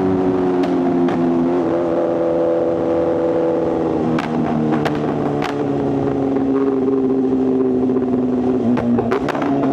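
Inline-four superbike engine running on the move, its note slowly falling in pitch as the throttle eases off. A few sharp cracks cut through it, several of them close together near the end.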